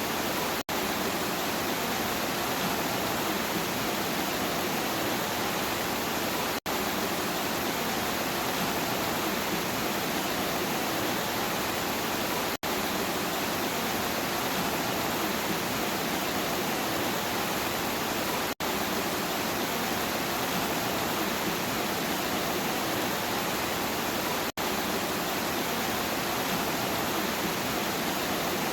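Steady rain, an even, unbroken hiss. It cuts out for a split second about every six seconds, as in a short repeating recording.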